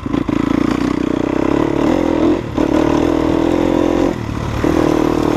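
Off-road motorcycle engine running steadily under throttle on a trail ride. The engine note drops briefly twice, about two and a half seconds in and again just after four seconds, as the throttle is eased off and picked back up.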